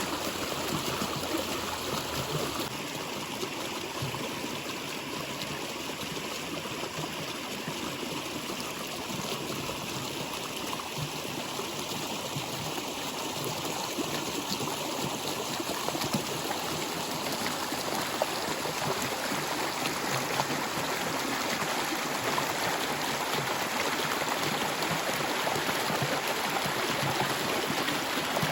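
Stream water flowing and trickling steadily, growing slightly louder about two-thirds of the way through.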